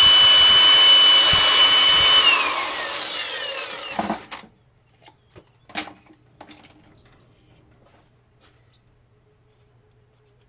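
A high-speed power tool running with a steady high whine, then switched off about two seconds in and spinning down over the next two seconds. Afterwards a few light clicks and knocks.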